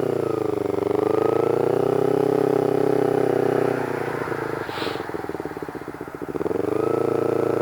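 Motorcycle engine running under way, its pitch holding steady, then falling as the throttle is rolled off about four seconds in, and rising again near the end as the throttle reopens.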